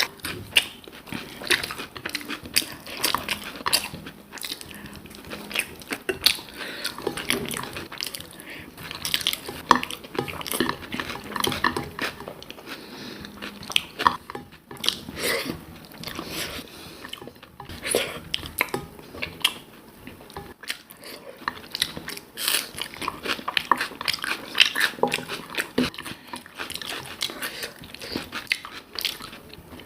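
A person chewing and biting food close to the microphone: a steady run of irregular mouth clicks and crunches, many a second, with no talking.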